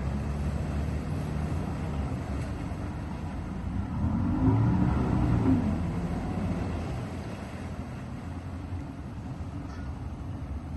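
Two-stroke outboard motor running steadily, swelling about four seconds in with a pitch that rises and then falls before settling back.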